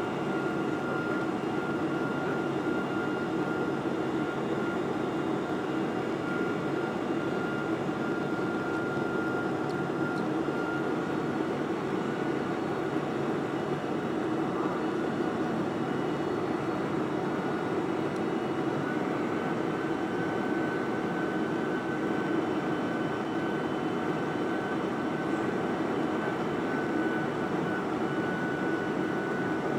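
Boeing 747-400 jet engines and airflow running steadily, a rushing noise with a thin steady whine that steps slightly higher in pitch about twenty seconds in.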